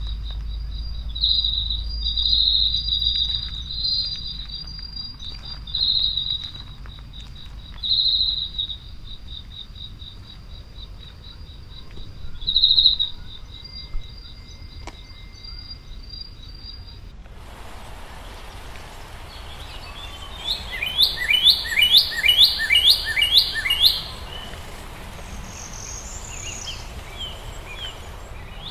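An insect trills steadily at a high pitch, swelling louder now and then. After an abrupt change of background partway through, a bird sings a quick run of repeated down-slurred notes, with a few more calls near the end.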